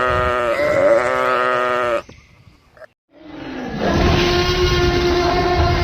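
A long, quavering livestock bleat that ends about two seconds in. After a short pause, a second long, steady animal call begins about three seconds in.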